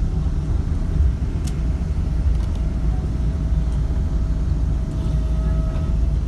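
Steady low rumble inside the cabin of a Boeing 777-200ER on the ground just after landing, with a faint steady whine over it and a second, higher whine near the end.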